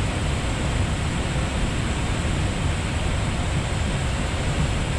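Steady rushing noise of air and airflow inside an Airbus A320neo cockpit in flight.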